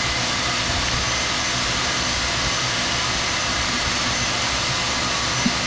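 Jackhammer breaking up a thick concrete floor slab, running continuously as a loud, steady, dense noise.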